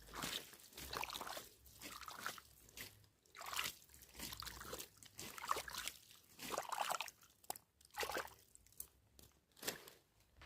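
Wet leaf litter and soggy ground crunching and sloshing in irregular bursts, with water trickling.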